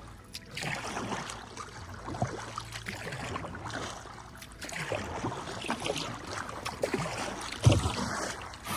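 Kayak paddle strokes splashing and dripping in river water, with a thump about three-quarters of a second before the end.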